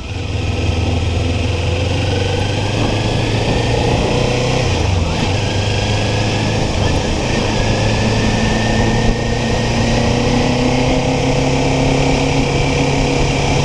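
Kawasaki Ninja 400 motorcycle engine running under way, over a steady rush of wind and road noise. The engine pitch dips briefly about four to five seconds in, then the revs climb slowly and steadily.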